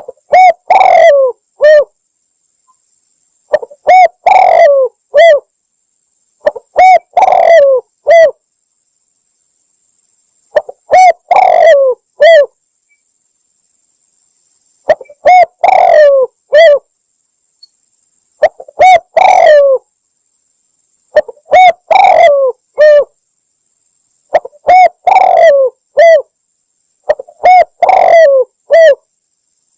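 Spotted dove (tekukur) cooing: a short three-note coo-croo-oo phrase, repeated nine times about every three to four seconds, as a lure call for calling doves in.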